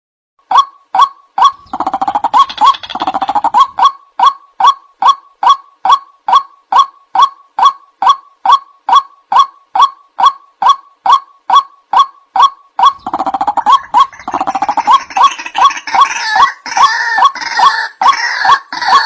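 Male white-breasted waterhen calling a monotonous, repeated 'wak', about two calls a second. The calling turns fuller and harsher about two seconds in and again from about thirteen seconds in.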